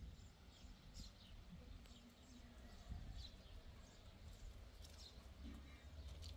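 Near silence: faint room tone with a low hum and a few faint, short high chirps every second or so.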